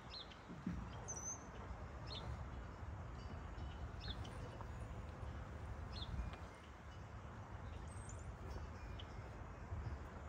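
A bird giving a short high chirp about every two seconds, over a steady low rumble.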